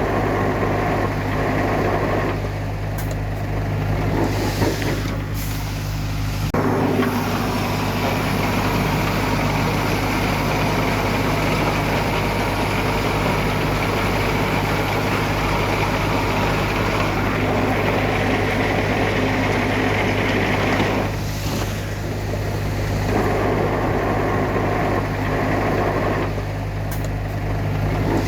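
Heavy diesel earthmoving machinery running: a steady low engine drone throughout, with a louder, noisier stretch from about a quarter of the way in to about three quarters of the way through.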